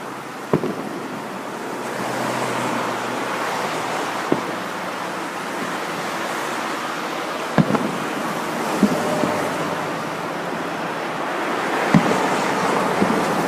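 Waves breaking on a beach, a steady rushing wash, with a few short sharp pops scattered through it.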